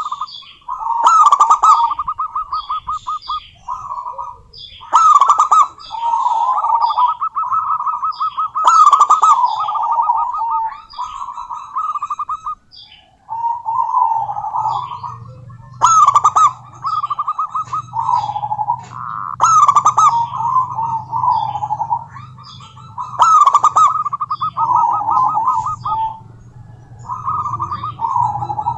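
Zebra dove cooing: repeated phrases of quick staccato notes running into rolling coos, a new phrase every three to four seconds. A low steady hum comes in about halfway through.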